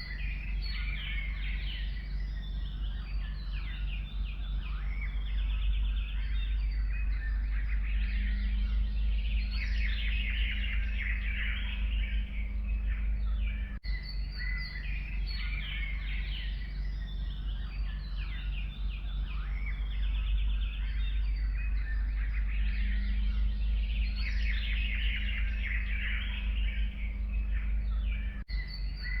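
Dense chorus of forest songbirds chirping and singing over a steady low rumble, with brief dropouts about halfway through and again near the end.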